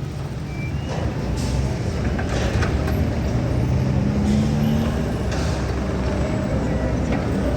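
Road traffic: a steady low rumble of motor vehicle engines, with a brief engine drone near the middle.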